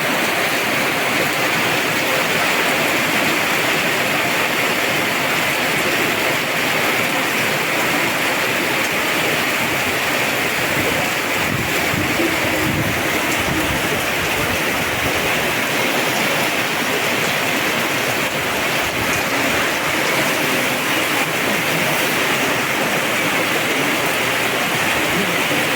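Heavy tropical downpour: rain pouring steadily and hard without letting up.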